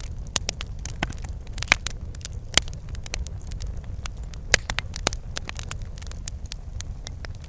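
Wood fire crackling: irregular sharp pops and snaps, the loudest about two and a half and four and a half seconds in, over a steady low rumble of burning.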